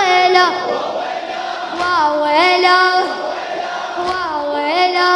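Chanted vocals of a Shia latmiya (mourning elegy), with layered chorus voices. Long held notes bend and waver in two drawn-out phrases, one about two seconds in and another about four seconds in.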